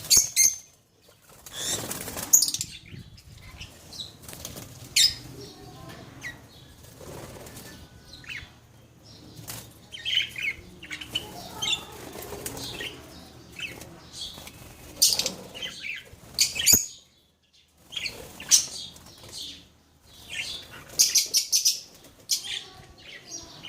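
Pet birds flapping their wings in short, irregular flurries, with some chirping between them.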